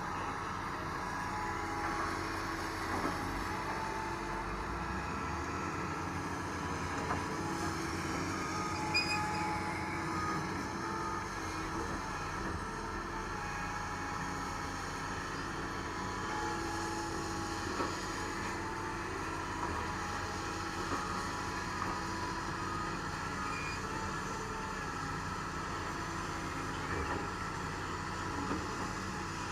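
Doosan DX225LCA excavator's diesel engine running steadily under work, with a few light knocks.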